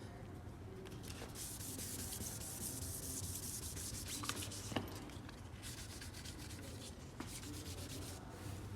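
2000-grit sandpaper scuffing a foggy plastic Honda Civic headlight lens: a rasping hiss in runs of quick back-and-forth strokes, with short pauses between runs. A faint low hum runs underneath.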